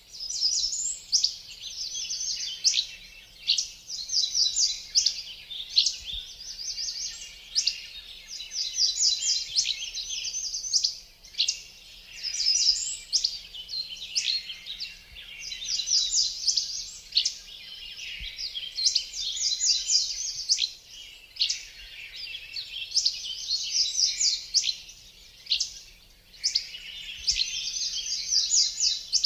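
Dense songbird chorus: several birds chirping and singing overlapping high-pitched trills of quick repeated notes, without a pause.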